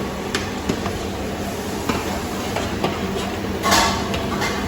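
Light clinks of a utensil against a bowl, with one short scrape about three and a half seconds in, as cream cheese goes into the macaroni salad mix, over a steady low background hum.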